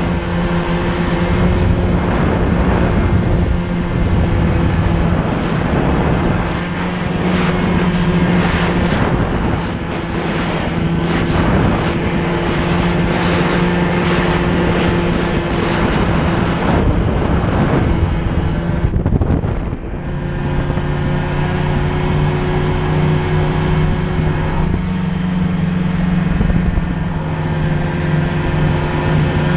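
Motor vehicle engine running steadily under way, with a rushing noise of travel over it. About two-thirds of the way through the sound briefly dips and the engine note settles lower.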